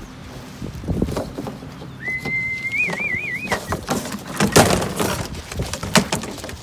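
Young racing pigeons released from crates: an irregular clatter of wing flaps and knocks, loudest about four and a half seconds in. About two seconds in, a single whistled note sounds for about a second and a half, steady and then warbling.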